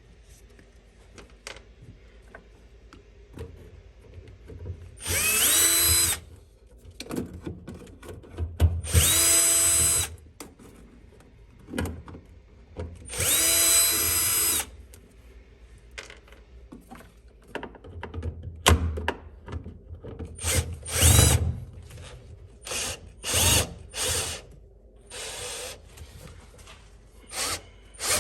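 Cordless power drill-driver whirring in bursts of about a second each, several longer early on and shorter ones later, as it winds out the tiny screws on the fuel pump assembly. Its pitch rises as it spins up at the start of a burst, with small handling clicks in between.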